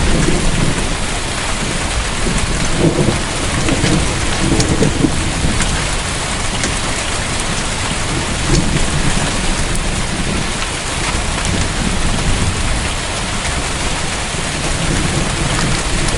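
Heavy storm downpour of rain and hail pounding on surfaces: a dense, steady hiss with scattered sharp ticks of impacts and low rumbling underneath.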